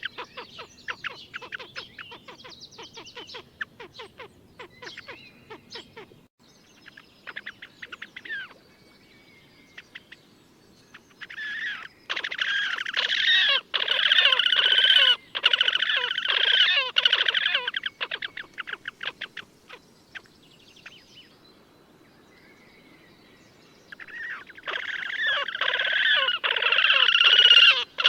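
Slavonian grebes giving their rapid, squealing trill calls in two long loud bouts, the first about twelve seconds in and the second starting near the end, with fainter scattered trilling notes before them.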